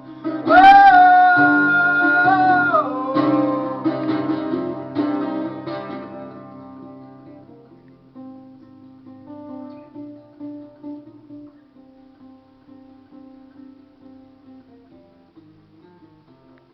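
Live song with acoustic guitar. A loud held sung note over strummed guitar lasts about two seconds, starting about half a second in. Then the guitar plays alone, fading after about six seconds to soft, sparse picking.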